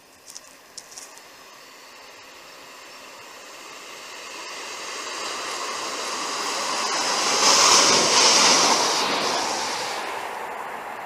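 Diesel passenger train approaching at speed and passing under the bridge: the rush of wheels on rail and engine noise swell steadily to a peak about eight seconds in, then fade as it goes by.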